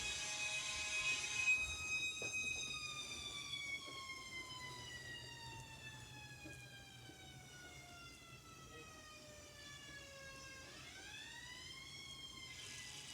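Fire engine's Federal Q mechanical siren, held at a high scream, then winding down slowly over several seconds. Near the end it is revved back up briefly and coasts down again. A rush of noise comes with the scream at the start.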